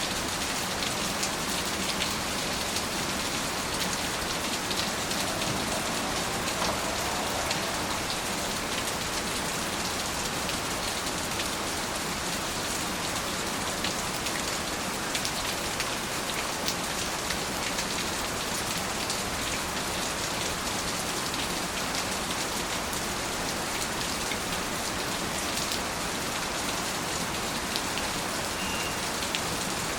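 Steady rain falling, an even hiss of rainfall with many distinct drop hits scattered through it.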